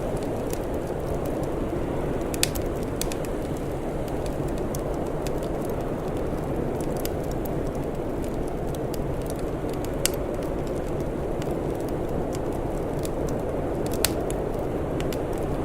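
Wood fire crackling, with scattered sharp pops and three louder ones, over a steady low rushing noise.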